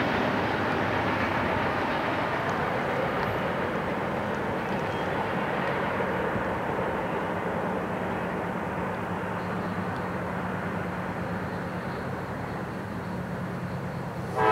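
Freight train of tank cars and covered hoppers rolling past on the rails, a steady rumble that slowly fades as the last cars go by, with a steady low drone from the oncoming diesel locomotive beneath it.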